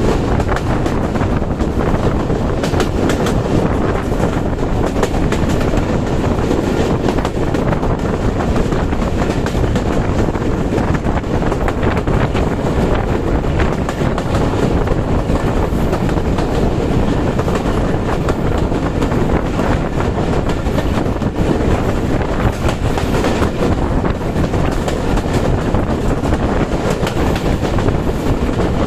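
Tungipara Express intercity passenger train running steadily and loudly, its wheels clattering over the rail joints.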